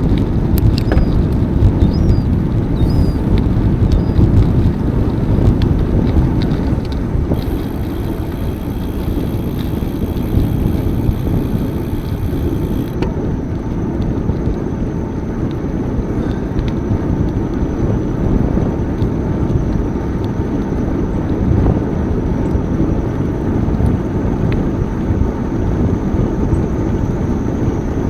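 Steady low rumble of wind buffeting the microphone, with tyre noise from a bicycle being ridden. A few short high chirps come in the first few seconds.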